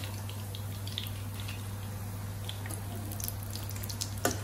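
Kebabs of leftover rice shallow-frying in hot oil in a non-stick pan: a steady sizzle with scattered pops, and a sharp click near the end as metal tongs touch the pan.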